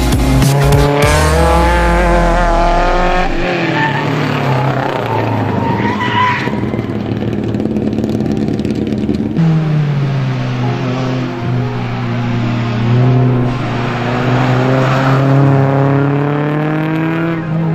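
Race car engines being driven hard round a circuit: first a red Fiat coupé, its engine rising and falling in pitch as the driver accelerates and lifts through the corners, with a brief tyre squeal about six seconds in. Then, after a sudden change about nine seconds in, a Renault Clio's engine pulls steadily and drops in pitch near the end.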